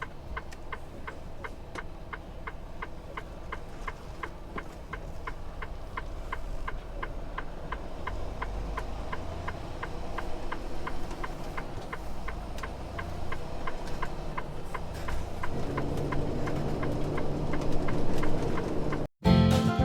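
A steady, rapid ticking, about three ticks a second, runs over a low engine rumble. The rumble grows louder with a deeper hum from about three-quarters of the way through.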